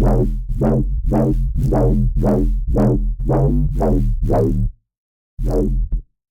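Vital software synthesizer bass preset playing a fast repeated note, about two and a half a second, each note opening bright and quickly dulling, over a steady deep bass. The pattern stops suddenly about three-quarters of the way through, followed by one last short note.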